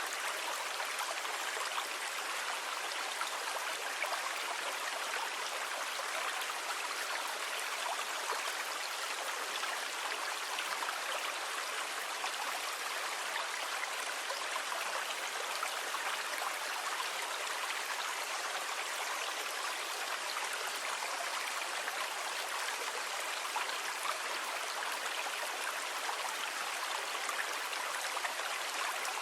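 Calm sea water, a steady even wash with no separate wave crashes.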